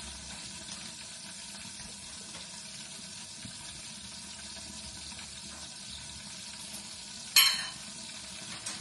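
Steady sizzling of chicken frying in oil, with one sharp clatter about seven seconds in.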